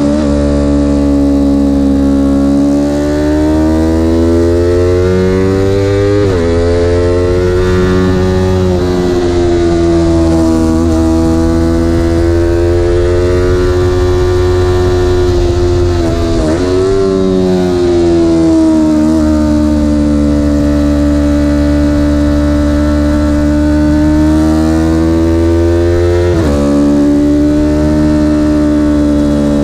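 Vehicle engine running hard under load, its pitch slowly rising and falling, with three abrupt breaks in the note about ten seconds apart.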